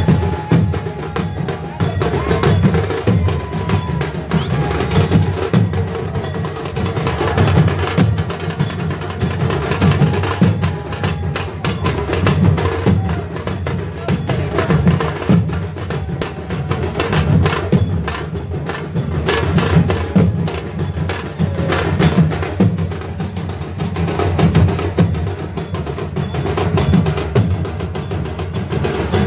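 Devotional percussion music: drums and other struck instruments played in fast, dense strokes without a break. A few faint held tones sound over the drumming in the first half.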